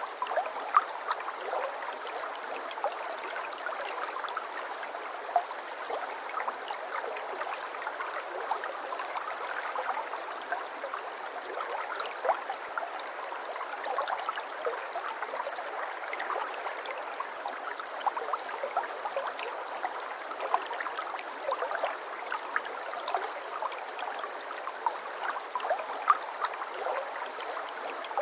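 Shallow brook babbling: water running steadily over stones, with many small gurgles and splashes breaking through.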